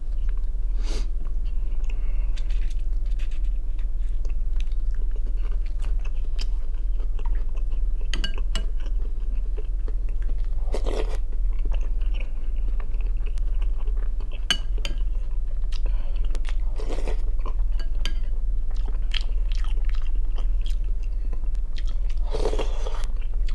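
Close-miked mouth sounds of a person eating soup and bread: chewing with crisp crunches and wet clicks, a few louder mouthfuls scattered through. A steady low hum runs underneath.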